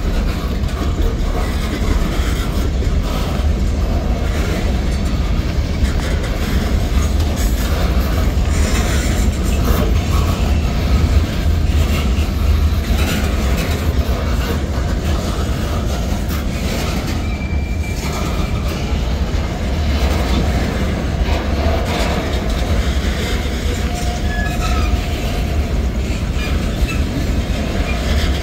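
CSX M693 mixed freight's boxcars and tank cars rolling past: a steady rumble of steel wheels on rail, with clickety-clack ticks as the wheels pass over rail joints.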